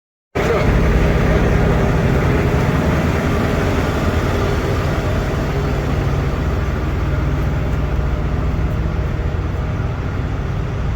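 Semi truck's diesel engine running steadily under constant road noise, heard from inside the cab. The sound cuts in suddenly just after the start.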